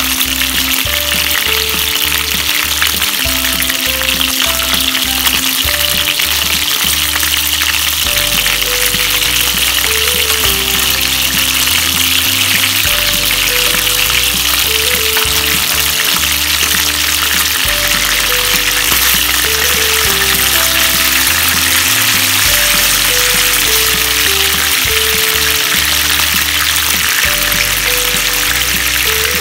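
Chicken wings sizzling steadily as they shallow-fry in hot oil in a pan, with background music playing over it.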